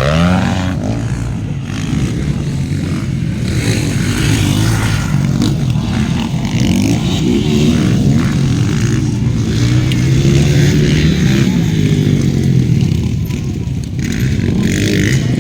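Motocross dirt bikes racing on the track, their engines revving up and down continuously as the riders work the throttle.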